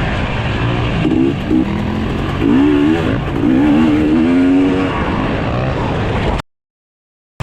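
Dirt bike engines running on a motocross track, with a bike revving up and down in quick, wavering pitch swings. The sound cuts off suddenly about a second before the end.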